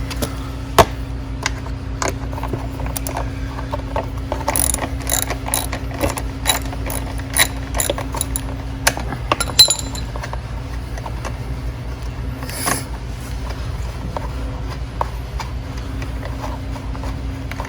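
Socket ratchet clicking in short runs as a 10 mm body bolt is turned out, with a few sharper metal clicks, over a steady low hum. The ratcheting is densest from about four seconds in to about ten seconds in.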